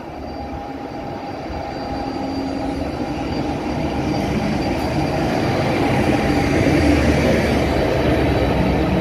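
Freight train hauled by diesel-electric locomotives approaching and running through the station. The engine sound grows steadily louder as the locomotives draw level and pass.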